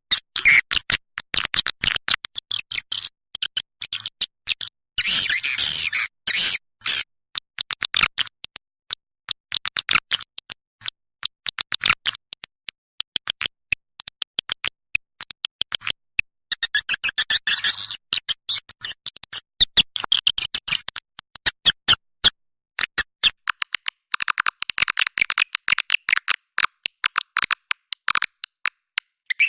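Swiftlet calls: rapid trains of short clicks and twittering chirps that stop and start in bursts with brief silent gaps, a lure recording of the kind played to call swiftlets.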